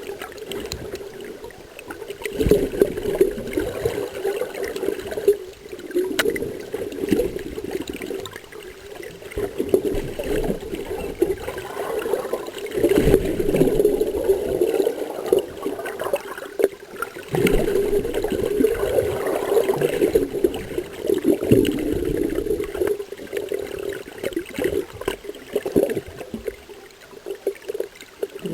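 Water sloshing and gurgling, swelling and easing every few seconds, over a steady low hum.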